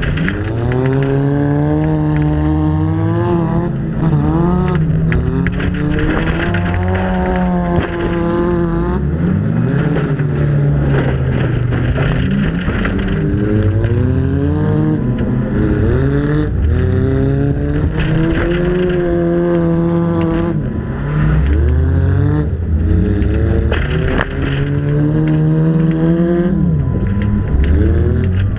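Demolition derby car's engine, heard close up from the car's own hood during a dirt-oval race, revving up and dropping back over and over every few seconds as it accelerates down the straights and lifts for the turns.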